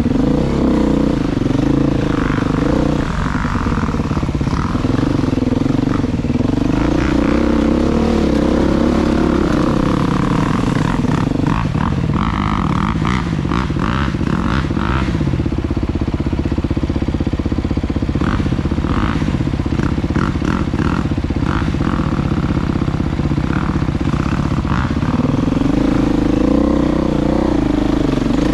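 Dirt bike engine running on a trail ride, its revs rising and falling with the throttle. Through the middle there is a run of clattering knocks.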